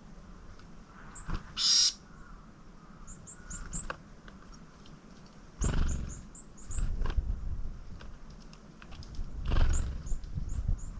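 Small wild birds giving short, very high, thin calls in little runs of three to five notes, with a harsher, noisier call about two seconds in. Two dull thumps with rustling come near six and ten seconds.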